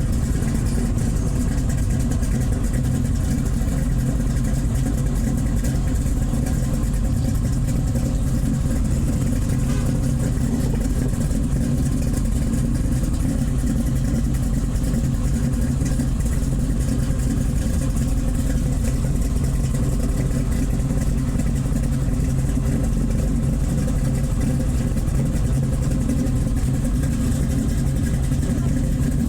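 Car engine running steadily, a low even drone with no revving.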